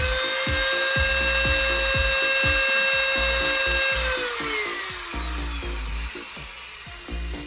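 Makita 6302 electric drill running at full speed with a steady whine, then released about four seconds in and winding down over the next couple of seconds.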